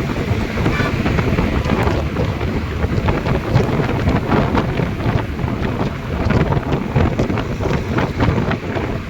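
Wind buffeting the microphone of a rider on a moving motorcycle, a steady loud rush with irregular gusts, with the bike's running and road noise underneath.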